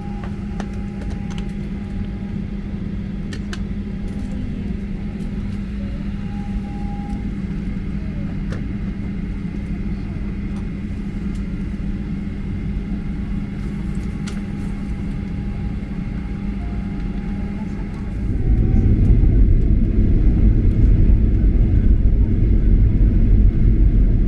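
Jet airliner cabin noise, most likely aboard a Boeing 737-800: a steady hum with a faint higher whine. About 18 s in, the hum and whine give way to a much louder, deep rumble that holds to the end, as when the engines go up to takeoff power.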